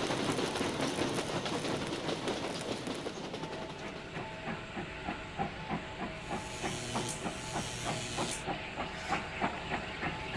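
Steam locomotive sound effect: a loud hiss of steam that fades over the first few seconds, then a steady rhythmic beat of the engine running along, about three beats a second.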